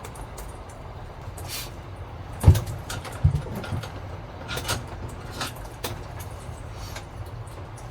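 Typhoon wind and rain buffeting a kei-truck camper: a steady low rumble with scattered rain hits, and two heavy thumps about two and a half and three and a quarter seconds in, the first the loudest.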